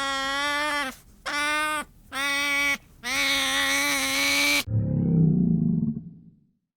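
Four bleats from a farm animal, the last one long, then an abrupt switch to a deep, rough growling roar from a large animal that fades out after about a second and a half.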